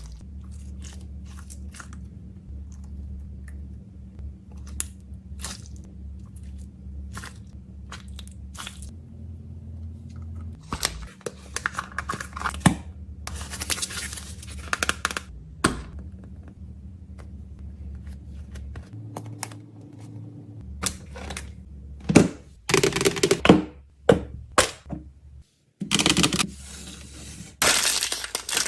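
Fidget toys and their plastic packaging being handled and packed: a string of small clicks and taps, with bursts of crinkling and rustling that grow louder near the end, over a steady low hum.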